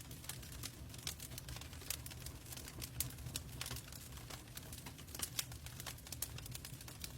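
Log fire in a fireplace crackling: a continuous run of irregular sharp pops and snaps, a few louder than the rest, over a low steady rumble.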